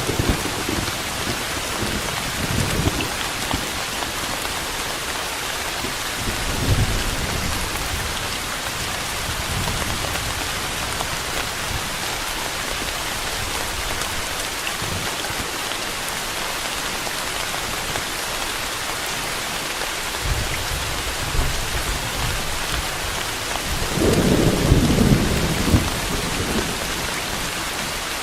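Steady heavy rainfall with low thunder rumbling now and then, the loudest roll about 24 seconds in.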